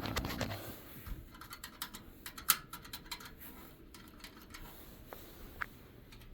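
Irregular light clicks and scraping as furnace parts are handled by hand, with one sharp click about two and a half seconds in.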